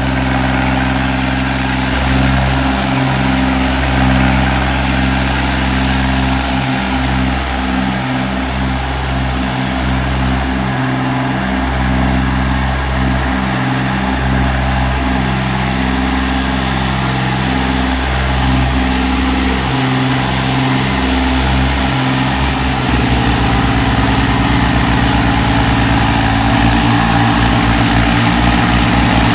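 Diesel tractor engines running hard in a tractor tug of war. About two-thirds of the way through, the engine note rises a little and turns rougher.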